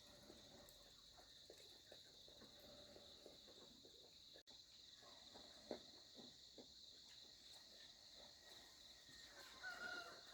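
Near silence with a faint, steady high-pitched insect chorus and a few soft scattered knocks.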